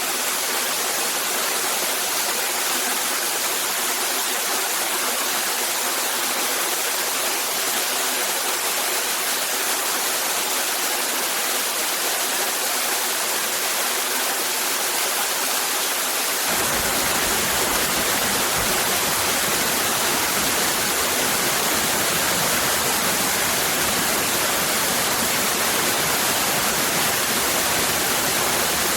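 Steady rushing of a cascading waterfall. A little over halfway through, a deeper low rumble comes in suddenly beneath it and stays.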